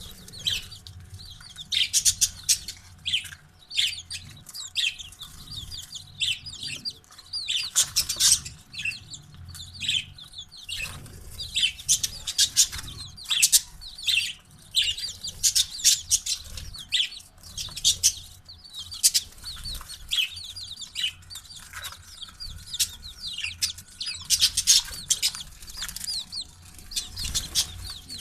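Chicks and parrots chirping and peeping: a dense, constant stream of short high-pitched calls.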